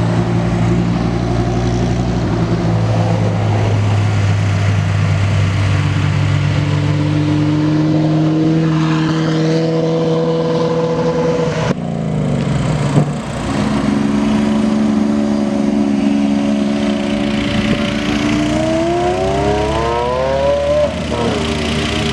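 Sports car engines running at low speed as cars roll by, with an abrupt change partway through. Near the end one engine revs, its pitch climbing for about two seconds and then dropping off sharply.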